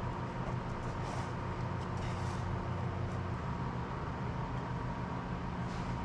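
Steady machine hum with a few fixed tones over an even noise, and a few faint, brief scraping hisses.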